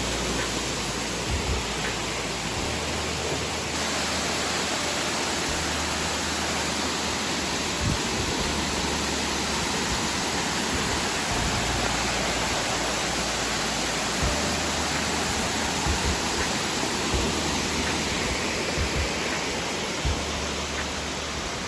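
Waterfall rushing as a steady, even roar of falling water, with a few brief low bumps.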